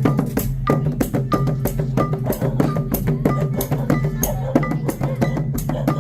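Khmer festival percussion music: fast, busy drumming with dense, rapid strikes and short ringing metallic notes recurring throughout.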